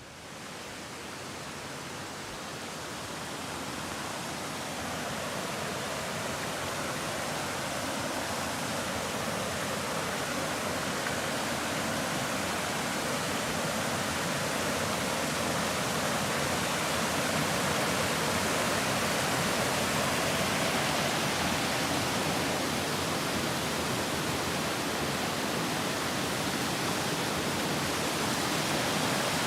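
Rushing brook running high with spring water, a steady wash of sound that grows louder over the first half and then holds steady as it comes closer.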